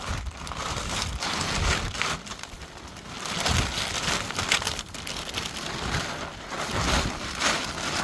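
Plastic roofing sheet rustling and crinkling as it is handled and held in place, an uneven hiss that swells and eases.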